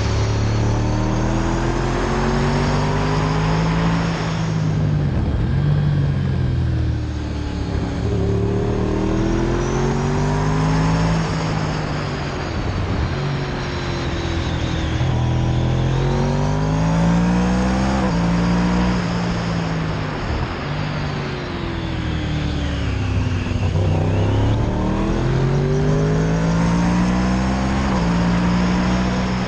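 Motorcycle engine under way, its pitch climbing repeatedly under throttle and dropping back at gear changes and when slowing, over a steady rush of wind and road noise.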